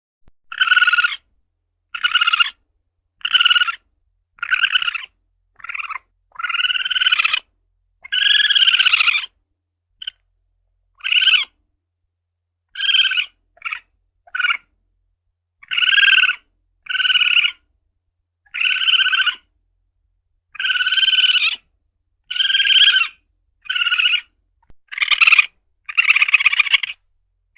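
Asian palm civet (luwak) calls: a run of about twenty short, pitched calls, each under a second or so, coming about once a second with brief silences between.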